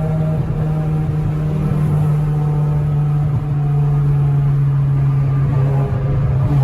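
Honda Civic EK hatchback's engine and exhaust droning steadily while cruising, dropping slightly in pitch near the end.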